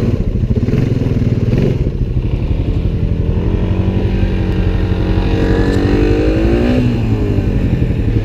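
Honda ATV engine running under way, its pitch rising from about three seconds in, holding, then dropping back near seven seconds as the throttle is opened and eased off.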